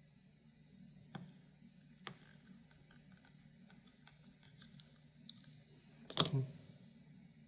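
A small tool working at the seal of a sealed fan bearing, prying it open to see whether oil has got inside: a couple of sharp clicks, a run of small ticks and scratches, then one loud sharp snap about six seconds in.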